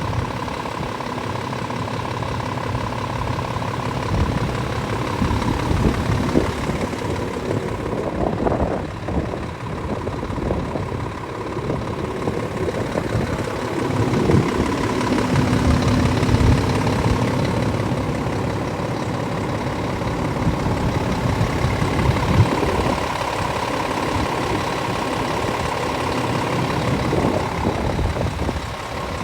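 Scania S500 truck's 13-litre inline-six diesel idling steadily.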